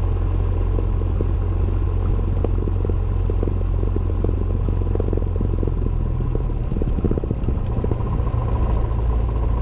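Cessna 172N's four-cylinder Lycoming engine running, heard inside the cockpit as a steady low drone with rattling clatter; the drone's low pitch shifts about two-thirds of the way through.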